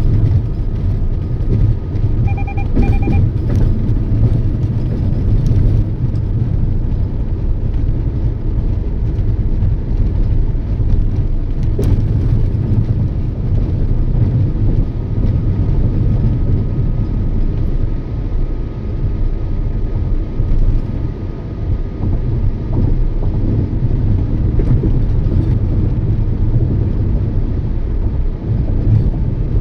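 Toyota Yaris driving steadily: a continuous low rumble of road and engine noise. A short run of beeps sounds about two and a half seconds in.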